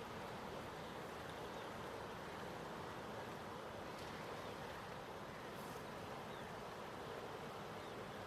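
Steady rushing of a flooded river's water.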